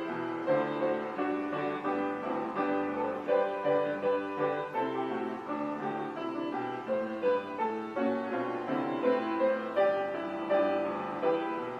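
Instrumental piano music: a melody over held chords, with no singing.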